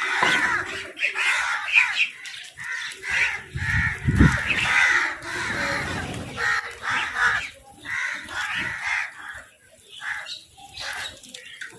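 Several crows cawing over and over in quick, overlapping calls while they fight over food, with a brief low thump about four seconds in.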